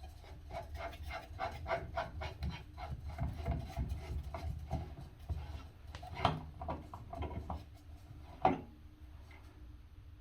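Old shower head being turned off its arm with tongue-and-groove pliers: a run of short metal rasping clicks, about three a second, then two louder knocks near the end.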